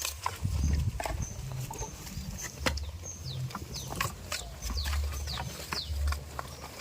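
Farmyard animal sounds: repeated short, high bird chirps falling in pitch over scattered clicks and knocks, with a low rumble coming and going.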